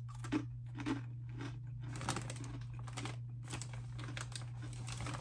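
Crunchy Cheetos pretzel being chewed close to the microphone, with a run of sharp crunches about every half second. A steady low hum runs underneath.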